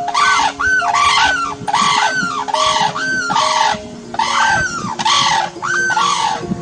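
Sarus cranes calling: a rapid series of loud, brassy trumpeting calls, about two a second, at a higher and a lower pitch overlapping each other.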